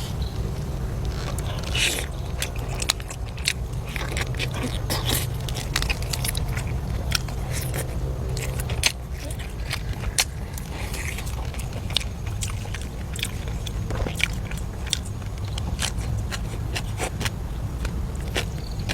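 Close-up eating: many sharp crunches and clicks of biting and chewing food. A steady low hum runs underneath.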